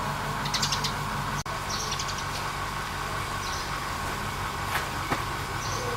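An engine running steadily, with short high chirps over it from time to time.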